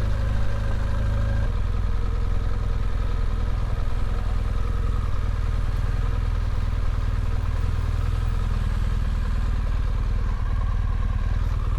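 BMW GS motorcycle engine running steadily as the bike moves slowly.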